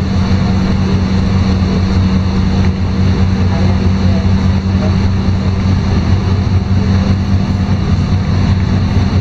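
LiAZ-5292.22 city bus running steadily, its engine a constant low hum with road and cabin noise, heard from inside the passenger cabin.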